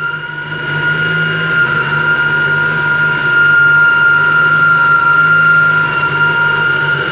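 Honda D15B7 four-cylinder engine fed by an Edelbrock four-barrel carburetor, running steadily at idle. A steady high whine sits over the engine note.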